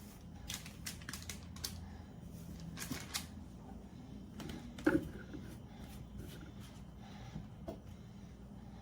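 Light, irregular clicks and taps of kitchen utensils against dishes, with one louder knock about five seconds in, over a low steady hum.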